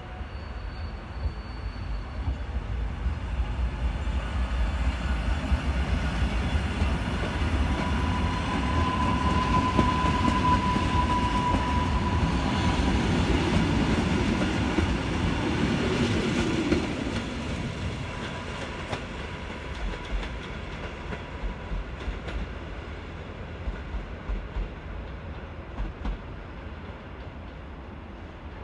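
EN57KD electric multiple unit running past close by. Its rumble builds to a peak about halfway through, with a steady whine for a few seconds, then fades as it moves away. Sharp clacks of its wheels over rail joints come in the later part.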